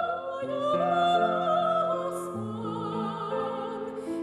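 Classical-style singing of a romance with vibrato on long held notes, over a sustained instrumental accompaniment whose lower notes change every second or so.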